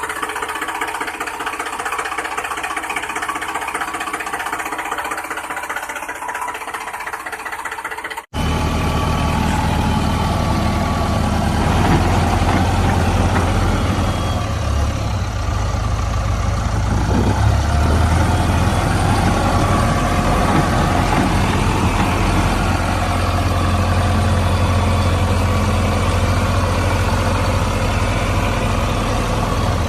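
Small motors running steadily with a whirring sound. About eight seconds in, an abrupt cut switches to a louder, deeper engine-like running that continues to the end.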